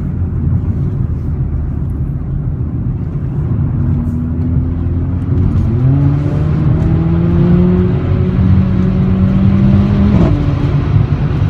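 Mercedes-AMG CLA45's turbocharged 2.0-litre four-cylinder engine pulling under acceleration: the engine note climbs steadily in pitch from about four seconds in, then drops sharply about ten seconds in, over a steady low drivetrain and road rumble.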